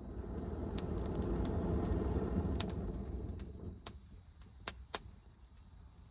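Campfire crackling, with sharp pops scattered through, while a low rumble swells over the first couple of seconds and fades away about four seconds in.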